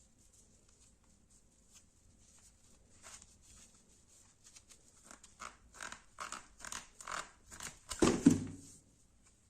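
A fixed-blade knife cutting, a run of short scraping strokes about two a second that grow louder, ending in one heavier stroke with a thud near the end.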